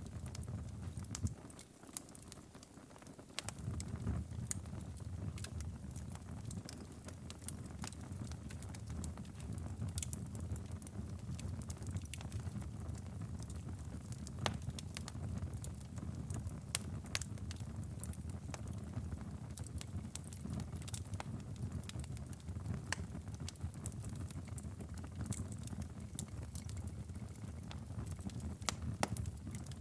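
Wood fire crackling and popping in a fireplace, with irregular sharp snaps over a steady low rumble. The rumble drops away briefly about two seconds in.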